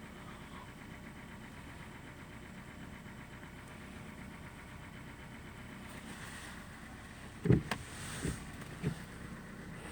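Steady low rumble of an idling car engine. Three short thumps about seven and a half to nine seconds in, the first the loudest.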